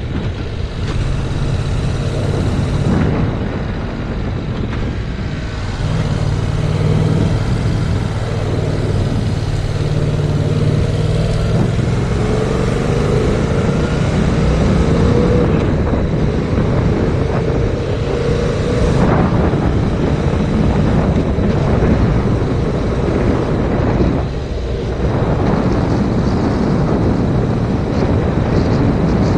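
Yamaha MT-07's parallel-twin engine running under way, heard through heavy wind buffeting on the GoPro's microphone. The engine note climbs as the bike accelerates and drops away briefly a few times, near three seconds in, about two-thirds through and again soon after.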